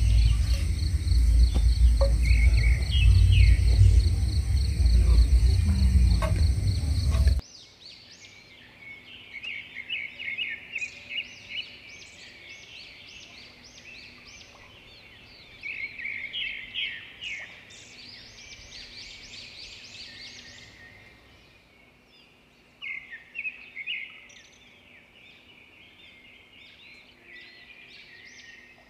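Birds chirping and trilling in rapid runs of calls, on and off throughout. For the first seven seconds a loud low rumble lies under them, then cuts off suddenly.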